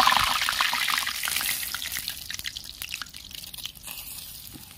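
Malpua batter cakes sizzling and crackling in hot oil in an iron kadhai, loud at first and then slowly dying down.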